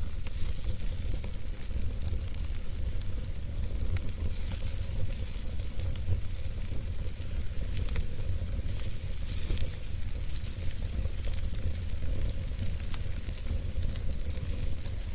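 Wood fire burning in a fireplace: a steady hiss and low rumble with scattered small crackles and pops.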